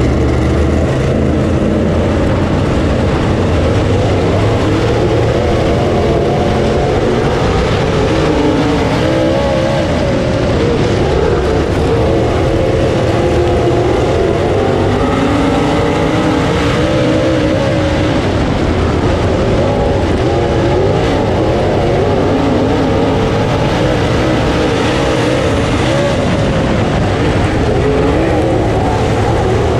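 Dirt late model race car's V8 engine running hard at racing speed, its revs rising and falling continuously without a break.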